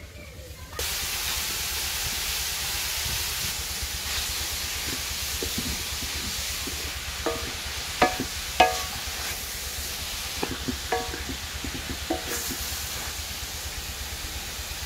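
Grated carrots sizzling in a hot aluminium karahi as their water boils off, the hiss starting abruptly about a second in as they hit the pan. A wooden spoon stirs them, with several sharp, briefly ringing knocks against the pan around the middle.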